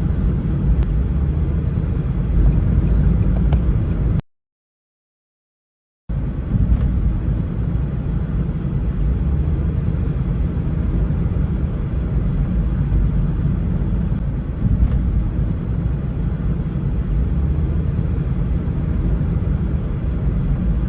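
Car driving through a sandstorm: a steady low rumble of road and wind noise. It drops out to silence for about two seconds a little over four seconds in, then carries on.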